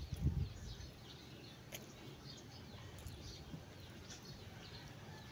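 Faint outdoor background with scattered small bird chirps, after a short low sound right at the start.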